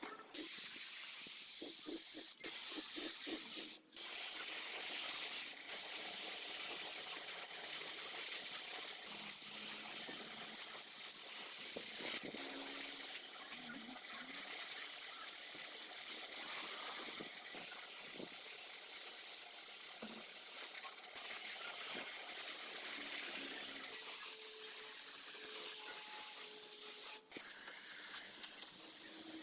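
Loud hissing spray from a nozzle, broken by several short, abrupt pauses.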